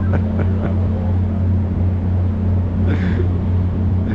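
An engine running steadily with a constant low hum, with a few light knocks near the start.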